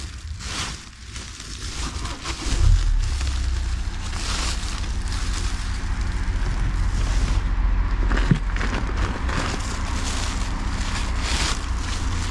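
Clothes rustling in repeated swishes as they are handled and sorted, over a steady low rumble that swells about two seconds in.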